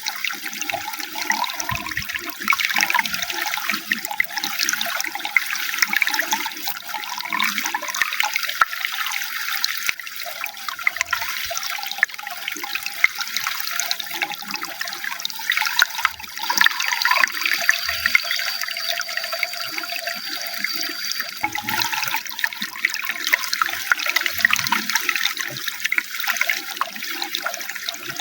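Running water splashing and gurgling steadily over stones. A thin, high, steady tone sounds faintly for about five seconds past the middle.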